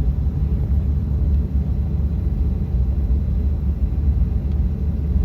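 Steady low rumble inside the cabin of a Boeing 737-800 taxiing after landing: its engines at idle and its wheels rolling on the taxiway.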